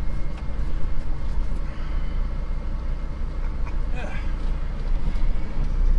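Unimog Landstar's diesel engine running steadily, its holed exhaust patched with a flexi pipe as a temporary fix.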